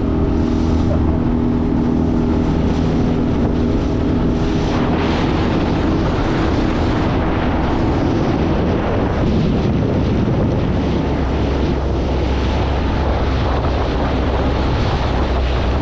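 Honda BF20 four-stroke outboard running at speed, pushing an inflatable boat across the water. Its steady drone is clear for the first four or five seconds, then is mostly covered by the rush of wind on the microphone and water against the hull.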